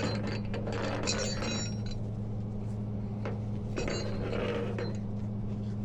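Metal tow rigging clinking and rattling as it is handled, in jingling bursts about a second in and again around four seconds, with scattered clicks, over a steady low engine hum.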